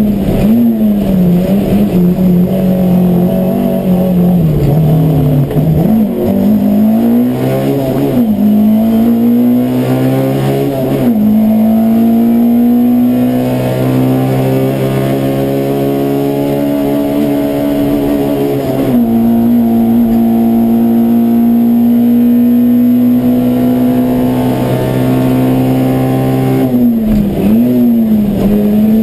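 Peugeot 205 1.3 Rallye Group A car's four-cylinder engine at high revs, heard from inside the cabin while being driven hard through the gears. The pitch drops and climbs again several times, then makes a long steady climb that ends in a sharp drop at an upshift about two-thirds of the way through, holds level at high revs, and dips and rises again near the end.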